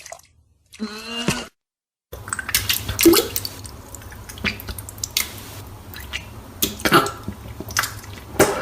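A person retching with a short gagging groan about a second in. After a brief silence, vomit splashes and drips in irregular wet splats, with another gag near the start of that stretch.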